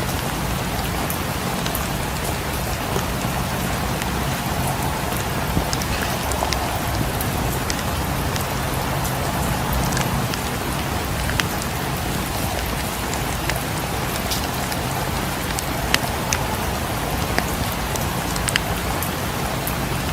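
Steady rain falling on a cabin, an even hiss over a low rumble, mixed with a fireplace crackling in scattered sharp pops.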